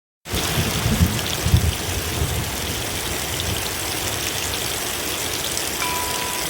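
Steady rain, starting abruptly after a moment of silence, with a couple of low thumps about a second in. Soft music notes begin near the end.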